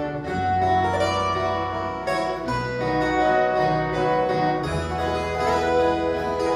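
Ensemble of violas caipiras playing an instrumental Christmas piece: bright plucked steel-string chords over a low bass line that moves to a new note every second or two.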